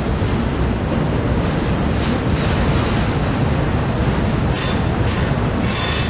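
Double-stack intermodal freight train's well cars rolling past, a steady rumble of steel wheels on the rails, with three short high-pitched wheel squeals between about four and a half and six seconds in.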